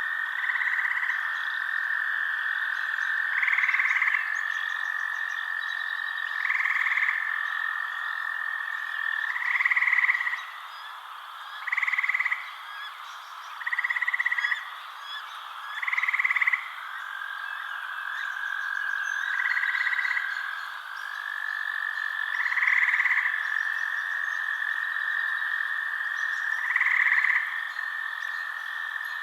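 Frogs calling at night: a steady, high trill that runs on with short breaks, while louder calls cut in about every two to four seconds.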